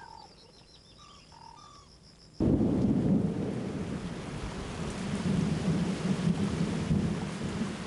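Heavy rain with a deep thunder rumble, starting suddenly about two and a half seconds in after a few faint short bird calls.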